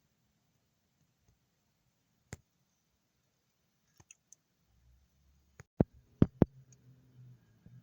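Sparse sharp clicks and taps of handling: one a little over two seconds in, then a quick run of four louder clicks near the end, over a faint low rumble.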